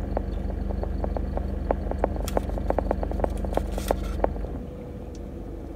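Chewing of crispy bacon close to the microphone: many small, irregular crunches and clicks that stop about four and a half seconds in, with a few sharper crackles between about two and four seconds in. A steady low hum runs underneath.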